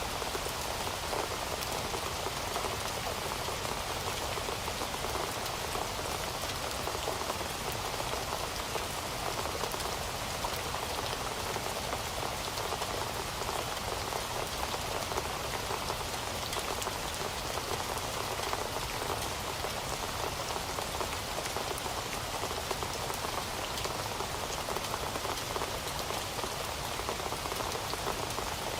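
Heavy rain falling steadily, a dense even hiss of drops with fine scattered pattering and no change in intensity.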